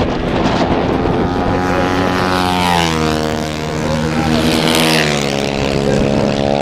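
Single-cylinder flat-track racing motorcycles running at speed. The engine pitch drops about halfway through as a bike goes by, then climbs again near the end as a bike accelerates.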